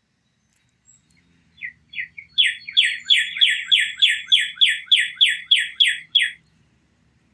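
A songbird singing one song of about a dozen loud, falling whistled notes at about three a second, after a few softer opening notes. It begins a second and a half in and stops suddenly near the end.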